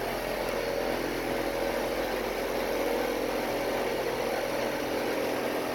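Central air conditioner's outdoor condensing unit running steadily, compressor and fan making an even hum with a few held tones, on a freshly recharged system after an evaporator coil replacement.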